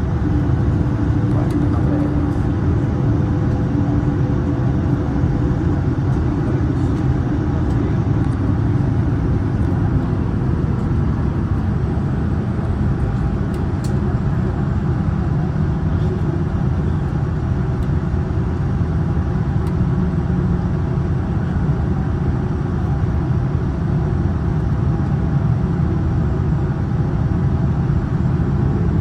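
Steady loud rumble heard inside the cabin of a Boeing 787-9 Dreamliner during its takeoff run, with the engines at takeoff thrust and the airframe rumbling.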